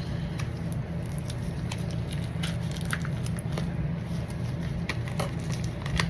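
Mail packaging being handled and opened by hand: scattered irregular crinkles and clicks, over a steady low hum.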